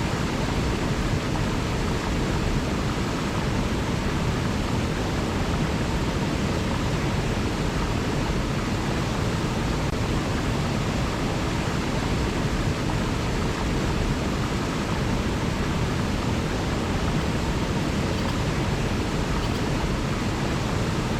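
River water rushing, a steady, even hiss with no changes.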